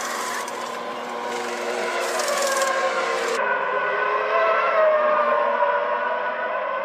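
1998 Formula One car engine at racing speed, its high note rising and falling as it revs through gears and passes. A hiss over it cuts off suddenly about three and a half seconds in.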